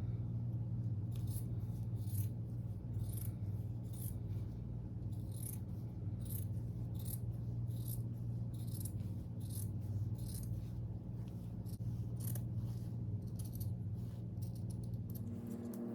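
Scissors cutting fabric: a run of short snips, one or two a second, over a steady low hum.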